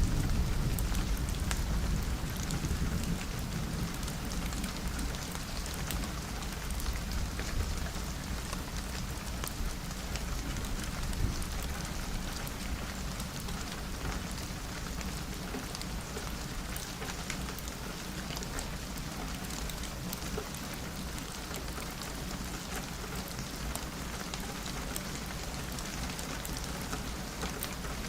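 Steady rain pattering on a window glass, with fine drop ticks throughout. A low thunder rumble fades away over the first few seconds.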